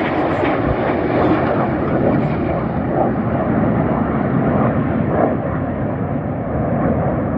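Red Arrows BAE Hawk T1 jets flying past in display, their Adour turbofans making a loud, steady rushing noise that grows slowly duller as they draw away.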